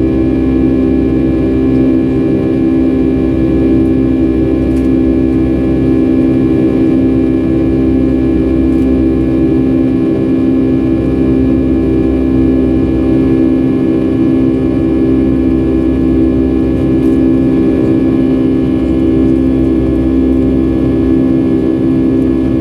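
Steady cabin drone of a Boeing 757-300 with its jet engines running, a loud, even rush with a layered steady hum that does not change.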